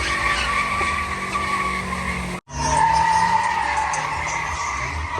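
Car tires squealing steadily as a car spins on the pavement, over the low rumble of its engine. The sound cuts out abruptly for a split second about halfway through, then resumes.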